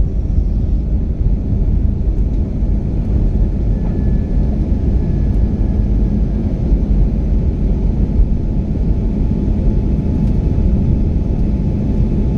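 Jet airliner cabin noise during takeoff and climb: a steady, loud low rumble of the engines and airflow.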